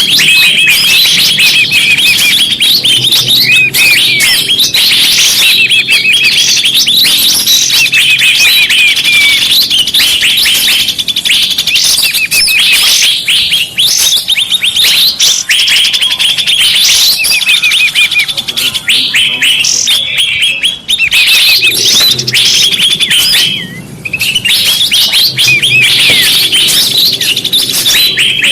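Bird-lure (pikat) recording of many small birds chirping and twittering at once, a dense, loud chorus of short high calls, broken only by a brief lull near the end.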